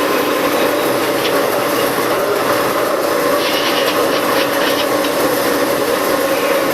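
Train running steadily along the rails: a continuous rumble of wheels and running gear, with a few faint clicks about halfway through.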